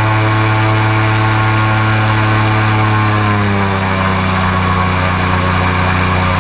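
Airboat engine and its large air propeller running steadily, then a little past halfway the pitch drops as the engine slows.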